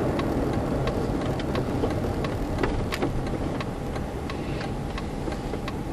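Car driving, a steady low rumble of road and engine noise, with a regular ticking about three times a second.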